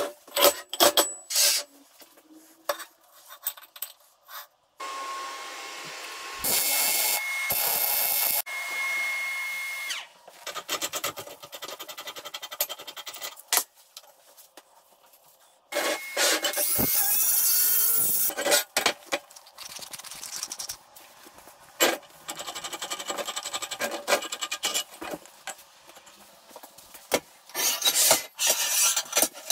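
Metalworking shop sounds in quick succession: power-tool runs, scraping and sawing, with sharp clanks and knocks of metal parts between them.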